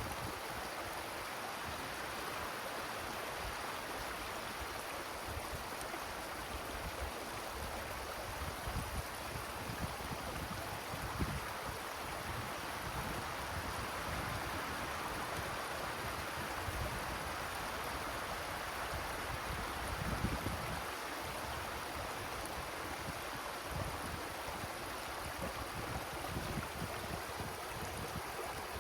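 Wind rushing steadily through forest trees, with a few low gusts buffeting the microphone, the strongest about two-thirds of the way in.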